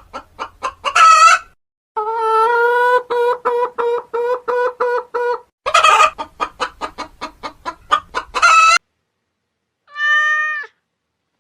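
Chicken clucking in quick bursts that speed up into loud squawking cackles, twice, with a long run of steady pitched clucks in between. About ten seconds in comes one short meow with a falling pitch.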